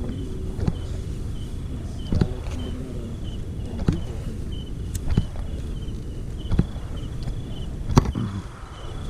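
Night insects chirping in short repeated bursts at one high pitch, over a steady low rumble. Sharp knocks come every second or so, the loudest about eight seconds in.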